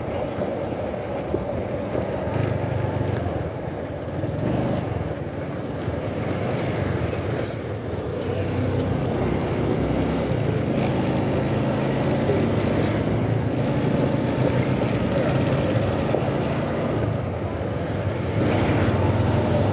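Motorcycle engine running steadily while riding in road traffic, with wind on the microphone. A short sharp click about seven seconds in.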